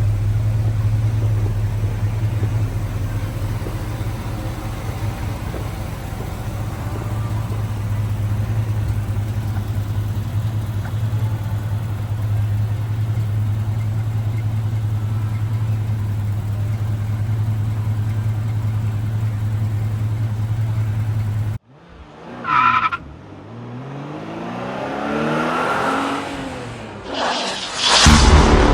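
The 1969 Chevrolet El Camino SS's 396 big-block V8 idling steadily for about twenty seconds, then cutting off abruptly. A different passage follows: an engine rising and falling in pitch, with a loud burst near the end.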